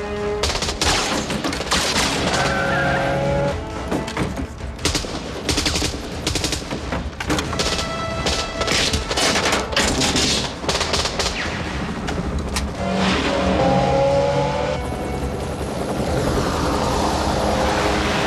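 Action-film soundtrack: repeated bursts of automatic gunfire over dramatic score music and vehicle engine noise, with a dense rushing noise building near the end.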